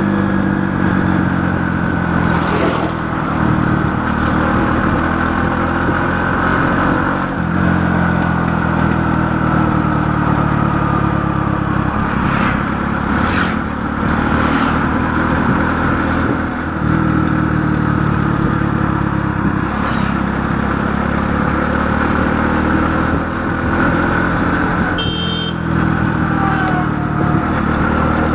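A motor vehicle's engine running steadily, with a few short knocks, three of them close together about halfway through.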